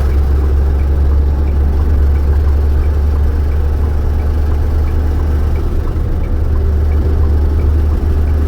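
Peterbilt big rig's diesel engine running with a steady, deep drone, and a faint ticking about twice a second over it.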